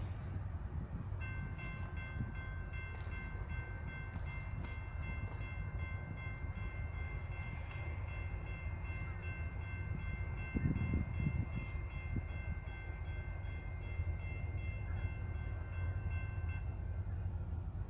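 Locomotive's Leslie RS5T air horn blowing a long chord for about fifteen seconds, its upper notes cutting in and out, a horn the uploader calls crappy. Underneath, the train's low rumble runs steadily, louder for a moment about ten seconds in.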